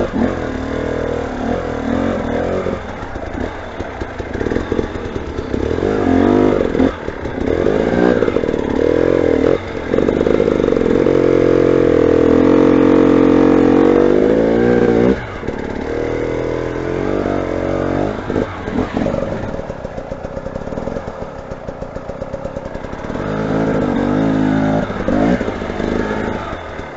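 Motorcycle engine revving in repeated rising and falling bursts, with one long hard-held rev around the middle.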